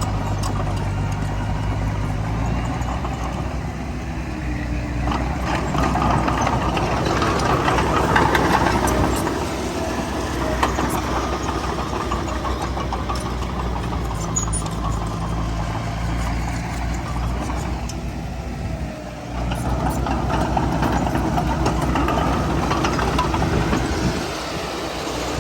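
Heavy diesel engine of earthmoving machinery working, growing louder under load twice and easing back in between, with scattered sharp clanks.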